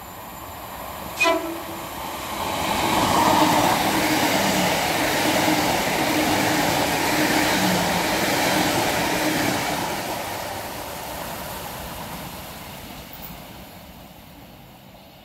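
A passenger multiple-unit train sounds a short horn toot about a second in, then passes close by with a rush of wheels on rail and a steady hum from under the coaches. The noise fades as the train runs away.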